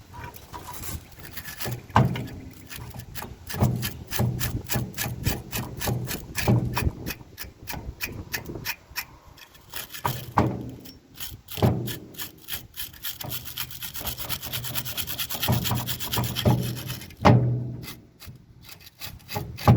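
Hand wire brush scrubbing old bolts in quick back-and-forth strokes, a few a second, with a few louder knocks, scraping off years of crud.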